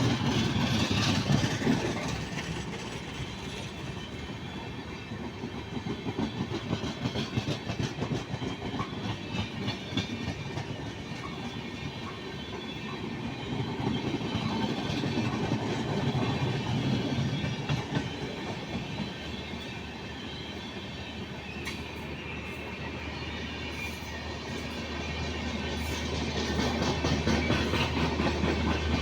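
Indian Railways train running on the track, its wheels clattering over the rails, the sound swelling and fading. A low steady engine hum builds near the end.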